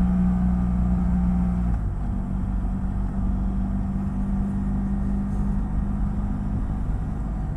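BMW F800GS parallel-twin engine running steadily while riding, a steady drone whose pitch dips slightly about two seconds in and fades near the end.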